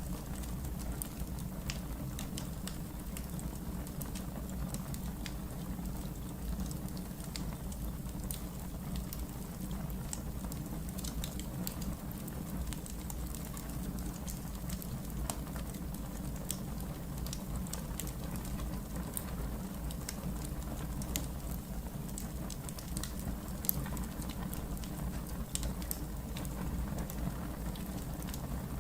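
Wood fire in a fireplace burning, with a steady low rumble and irregular sharp crackles and pops. A couple of the pops, in the second half, are louder than the rest.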